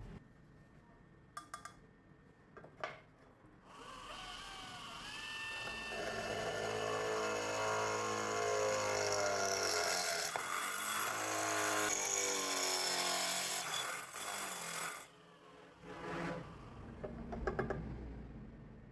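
Homemade drill press–drum sander motor starting about four seconds in with a rising whine, then running against wood for about nine seconds with a wavering pitch as the load changes, and cutting off suddenly; a few clicks before it and some knocks after.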